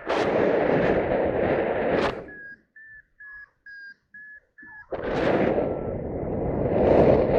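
Wind rushing over the microphone, which drops away for about two and a half seconds while a paragliding variometer gives six short, evenly spaced beeps of one pitch, the climb tone that signals lift; the wind noise then comes back and builds.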